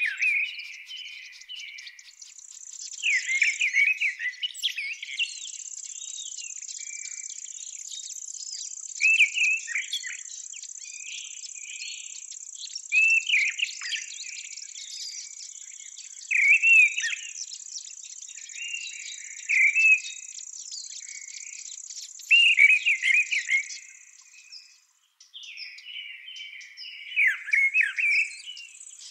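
A songbird singing short warbled phrases every three to four seconds over a steady, high-pitched insect trill from the grass. The trill breaks off for a couple of seconds near the end, then resumes.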